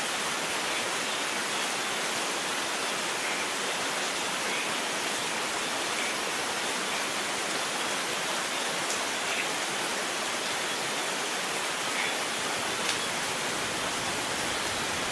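Steady heavy rain falling in an even hiss, with a few faint separate drops ticking through it.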